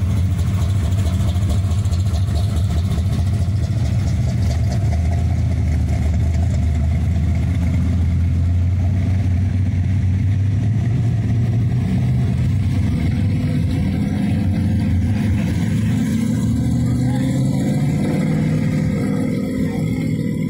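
Car engine running steadily with a loud low rumble.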